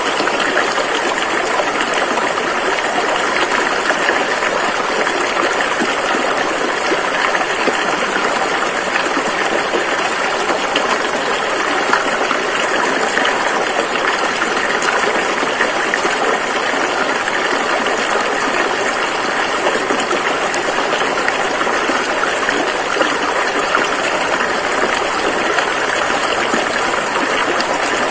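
Rushing river water flowing in a steady, loud, unbroken rush.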